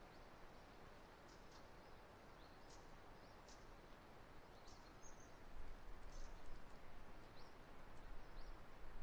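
Strong wind gusting over the microphone, a low rumble that swells from about halfway through, with faint, scattered high chirps from small birds.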